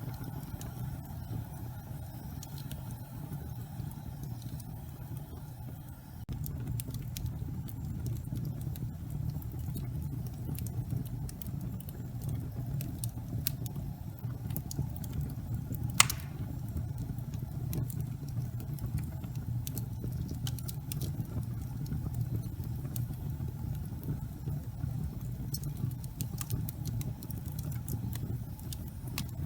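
Gas fireplace flames burning with a steady low rumble, scattered small crackles and one sharp pop about halfway through. The rumble grows a little louder about six seconds in.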